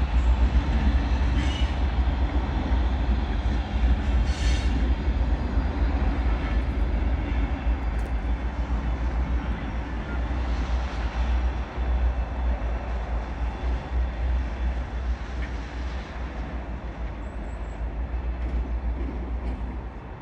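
Train moving through the station, a steady low rumble that eases slightly near the end.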